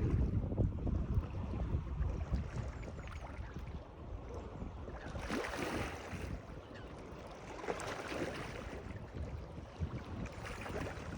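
Water washing and lapping, swelling up three times at a slow, uneven pace, with wind rumbling on the microphone at the start.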